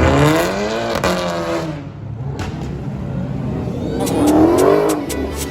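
Car engine revving hard, its pitch climbing and falling back once near the start and again about four seconds in, with a few sharp clicks during the second rev.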